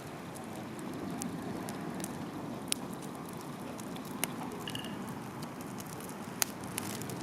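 Wood campfire burning: a steady low rush with four sharp pops from the wood, a second or two apart, and a brief high whistle a little after the middle.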